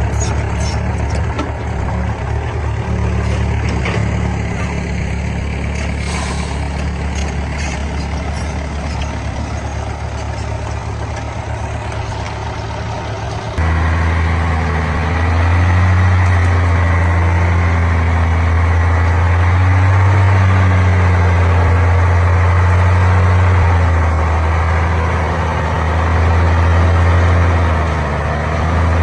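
Heavy diesel engine running steadily. About halfway through it abruptly gets louder, and its pitch then rises and falls slightly.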